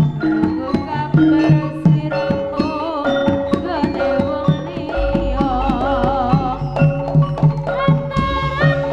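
Live Javanese jaranan music: hand drums beating a quick, busy rhythm under ringing gamelan-style metal notes, with a wavering held melody line above. A deep low hum joins about halfway through for a few seconds.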